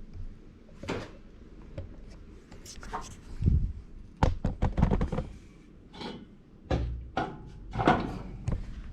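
A series of irregular knocks and thumps, some sharp and some dull, like objects being handled or bumped.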